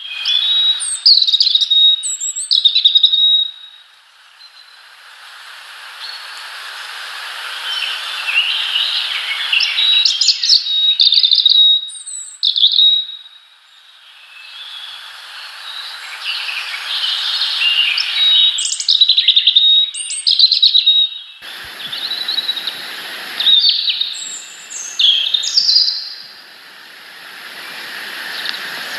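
Small birds chirping repeatedly in short, sharp, high calls over a hiss that swells and fades, with a brief burst of noise about three quarters of the way through.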